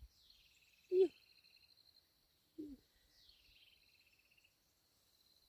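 Insects chirping: two high, pulsed trills, each lasting about a second and a half and starting with a falling sweep, over a faint steady high hum. Two very short low voice-like sounds, one about a second in and one near the middle, the first the loudest thing here.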